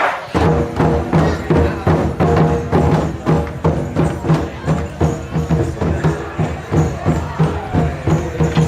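Taiko drum ensemble playing a fast, steady beat of about three to four strokes a second, with light clicking percussion over the drums.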